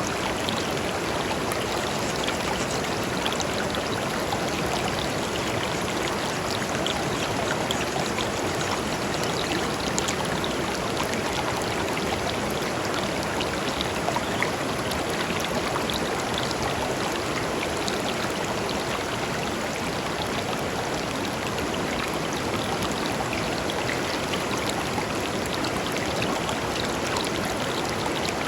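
Shallow river flowing over stones: a steady rush of water with small splashes and trickles scattered through it.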